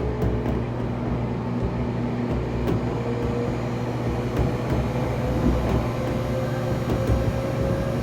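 JR Kyushu 811 series electric train running, heard from inside the car: a steady rumble with the internally-ventilated traction motors' whine rising slowly in pitch as the train gains speed.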